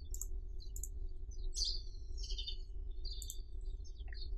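Faint, short, high bird chirps scattered throughout, with a couple of computer mouse clicks, over a steady low hum.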